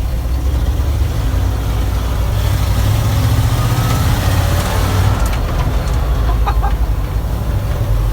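Carbureted engine of an old water truck running as the truck drives under its own power, a steady low rumble with a few short clicks after the middle.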